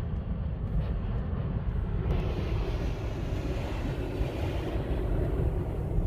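Car driving at speed, heard from inside the cabin: a steady low rumble of road and engine noise with a haze of tyre and wind noise over it.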